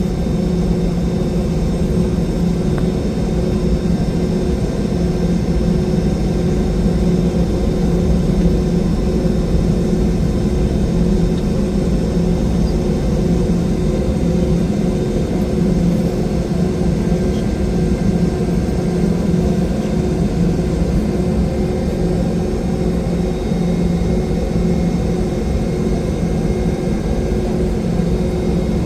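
Steady cabin drone of a Boeing 717-200 on the ground after landing, its tail-mounted Rolls-Royce BR715 jet engines and air systems running at low power, with a constant low hum.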